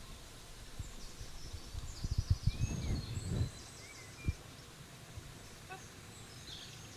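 Small birds chirping and twittering in short high calls. Low thumps and rumble on the microphone cluster about two to three and a half seconds in, with one more knock a second later.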